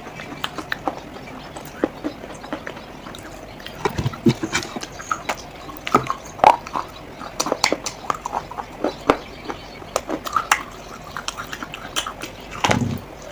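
Clay pot being handled for ASMR: irregular clicks and taps, with a few duller knocks about four seconds in and near the end.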